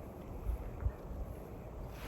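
Low rumbling wind noise buffeting the microphone, swelling briefly twice.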